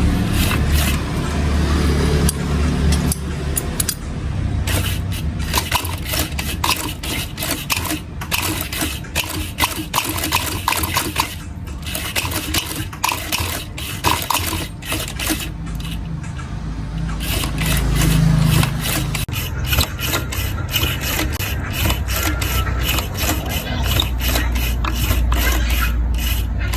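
Quick, irregular scraping and rubbing strokes, several a second, from hand work on a leather watch strap, over a steady low rumble of passing traffic.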